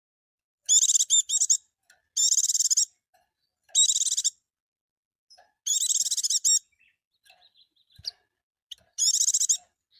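White-eye (pleci) singing: five short bursts of rapid, high-pitched twittering song, each under a second long and separated by brief pauses, the first about a second in. Faint single chips come between the bursts.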